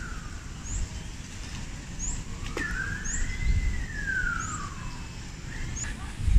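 Birds calling in trees: a short, high, rising chirp repeated about every second and a half, and in the middle one long whistle that slides up and then down.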